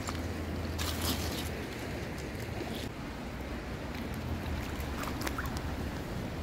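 Wind rumbling on the microphone over a steady rush of river water, with a few short clicks and scrapes.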